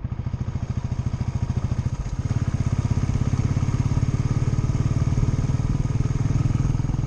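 Motorcycle engine running with a rapid, even beat, growing a little louder about two seconds in.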